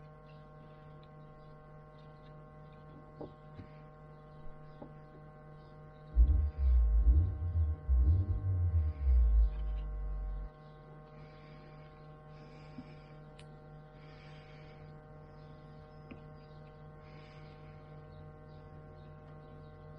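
Steady electrical hum made of several fixed tones. From about six to ten seconds in there is a run of loud, low thumps and rumbling.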